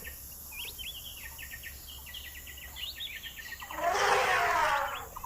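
Rainforest ambience: many quick, high chirps from small birds or insects in rapid succession. About four seconds in, a louder, fuller animal call sweeps down in pitch for about a second.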